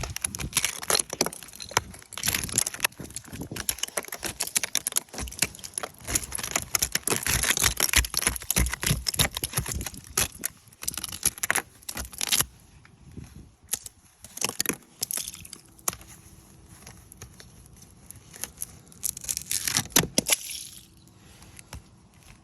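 Ice being broken and scraped off a truck: dense crackling and cracking for about twelve seconds, then sparser cracks, with another burst of crackling near the end.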